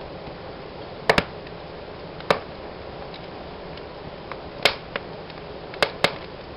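Fire in a fireplace crackling: a steady low hiss of burning, broken by sharp pops. There is a quick pair about a second in, another pop near two seconds, and several more toward the end.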